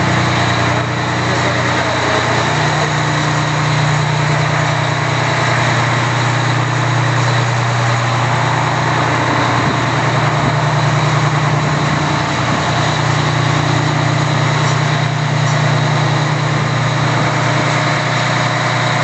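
Fire engine idling steadily, a constant low engine hum with a dense mechanical noise over it.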